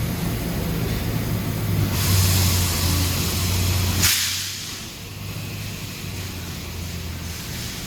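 Amada HG 1303 robotic press brake cell running with a steady machine hum. About two seconds in, a loud hiss of air starts and lasts about two seconds, then cuts off sharply, and the hum carries on quieter.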